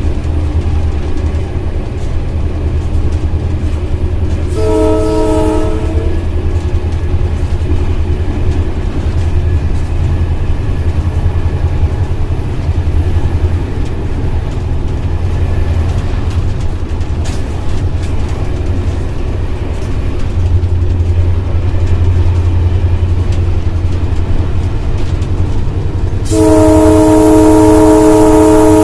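Steady low drone of a GMU-30 diesel locomotive running at speed, heard from inside the cab. The chord-sounding air horn gives a short blast about five seconds in and a long, loud blast near the end.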